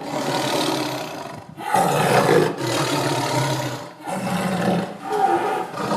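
Tiger roaring, three long rough roars one after another, played as the sound of the toy tiger.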